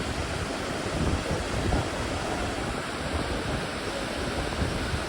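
Steady rush of naturally flowing water, with wind gusting and rumbling on the microphone.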